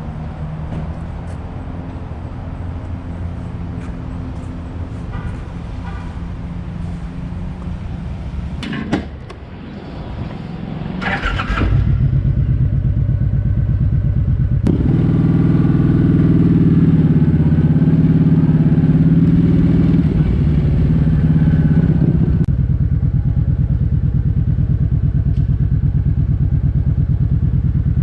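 Motorcycle engines idling as bikes pull up. About twelve seconds in a closer engine becomes much louder and keeps running with an even, pulsing idle.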